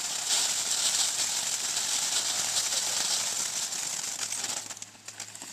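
Razzle Dazzle ground firework burning, a steady high hiss with faint crackling, which dies down about four and a half seconds in as it burns out.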